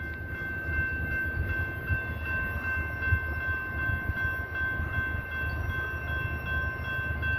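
Freight train passing at speed: a continuous low rumble from the railcars rolling over the track, with a steady high-pitched ringing tone held over it.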